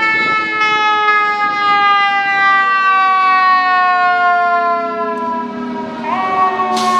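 Fire apparatus mechanical siren winding slowly down in pitch as it coasts for several seconds, then wound back up with a quick rise about six seconds in. A short hiss near the end.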